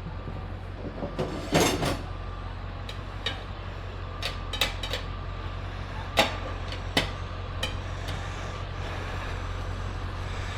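Scattered metal clinks and knocks of tire irons against a motorcycle wheel rim as the tire bead is pried over it, the loudest about a second and a half in and again about six seconds in. A steady low hum runs underneath.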